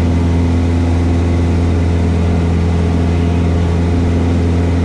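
Cessna 172S's four-cylinder Lycoming IO-360 engine and propeller droning steadily in flight, heard inside the cabin.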